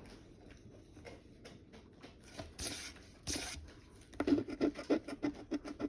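Scratch-off lottery ticket being scraped: two short scrapes around the middle, then a fast run of short scratching strokes from about four seconds in as the coating is rubbed off the next number.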